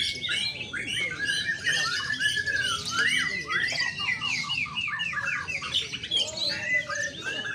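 Many caged songbirds singing at once: a dense tangle of overlapping chirps and whistled phrases. About halfway through, one bird gives a fast run of repeated notes.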